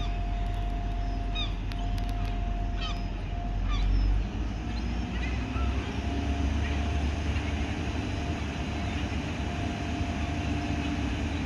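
Diesel multiple unit engine running at a station platform: a steady low rumble with a steady whine, its note shifting about four seconds in. Birds call with short chirps over it in the first half.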